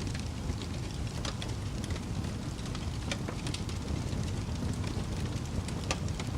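Fire crackling: irregular sharp snaps and pops, about two a second, over a steady low rumble of the flames.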